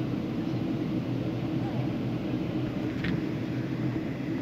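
Steady low rumble of an airliner cabin, with a single short click about three seconds in.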